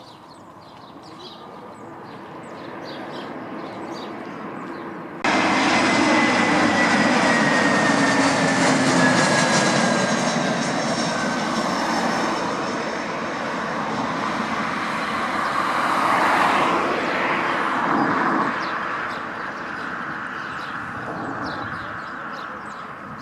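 Small aircraft's engines passing close on landing approach, a rushing noise with a whine that slowly falls in pitch. The sound builds gradually, jumps suddenly louder about five seconds in, and dies away over the last few seconds.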